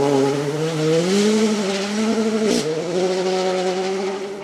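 Rally car engine running hard on a special stage, its pitch rising about a second in, dropping briefly as the revs dip about two and a half seconds in, then holding steady and fading a little near the end.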